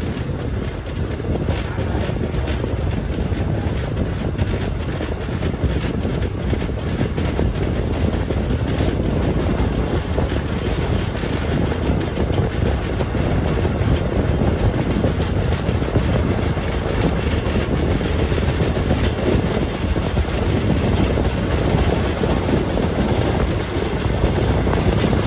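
Passenger train running along the track, a steady rumble of coach wheels on the rails.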